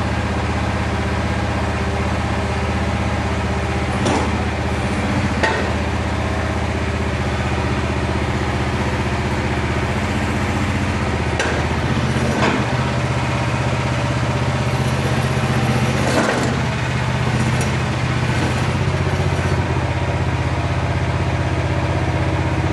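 Jansen MB 500's engine running at a steady idle, with a few short knocks or clanks.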